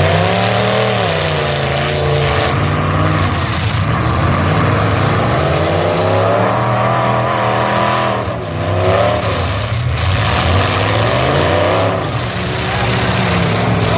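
Full-size truck engines revving hard and easing off again and again, the pitch climbing and dropping every couple of seconds.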